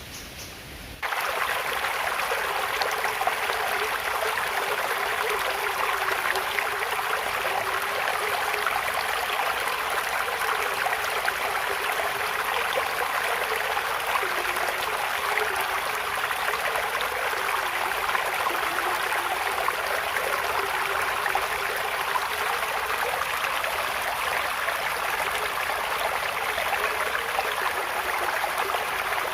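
Flowing stream water, a steady rushing and splashing that cuts in abruptly about a second in over a quieter hiss.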